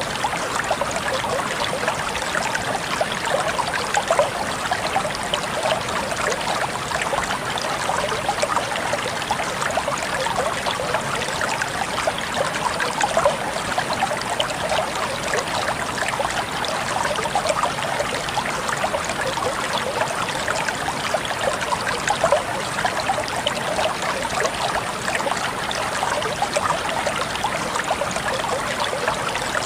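Water flowing and trickling steadily over stones, a constant splashing babble with small droplet sounds throughout.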